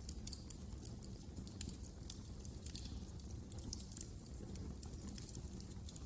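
Wood fire burning in a fireplace: a soft low rumble of the flames with frequent small irregular crackles and pops.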